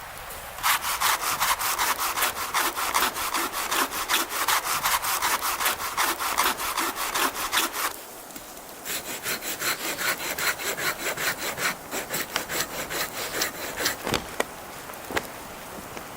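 Hand saw cutting through wood in quick, even back-and-forth strokes, in two bouts with a short pause about halfway.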